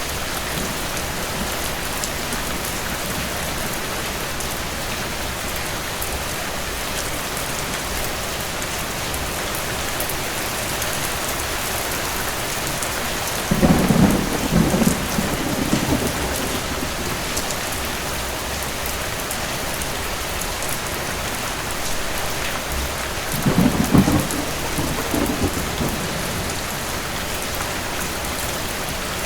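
Steady rain with two low rolls of thunder, each lasting two or three seconds: one about halfway through and another later on.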